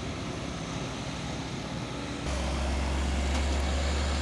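Truck engine running with a low, steady rumble that gets clearly louder about two seconds in.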